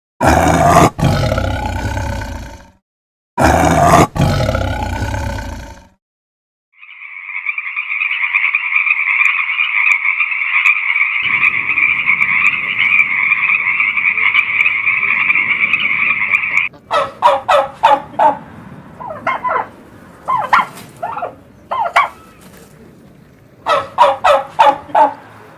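A run of different animal calls one after another: two long loud calls near the start, then a steady buzzing trill held for about ten seconds, then bursts of quick rapid-fire calls.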